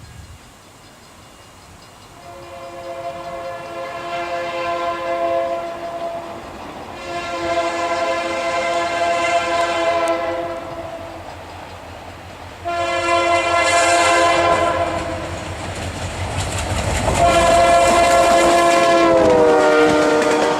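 Ontario Northland Railway locomotive's multi-tone horn sounding four long blasts as the train approaches. The last blast drops in pitch as the locomotive passes, over a rising rumble and clatter of the train on the rails.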